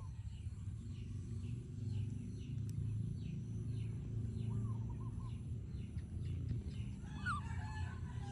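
Small birds chirping in a steady run of short chirps, about two a second, with a busier burst of calls near the end, over a low steady rumble.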